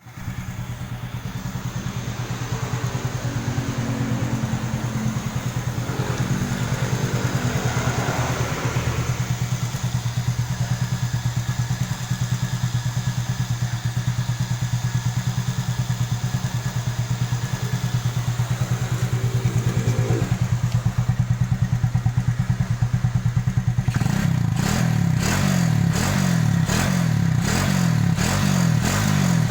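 Exhaust of a Yamaha Jupiter Z motorcycle with a swapped-in Jupiter MX single-cylinder four-stroke engine, breathing through a Yamaha Vixion muffler: it idles with a few light throttle blips. In the last few seconds it changes to a louder, steadier, more strongly pulsing run.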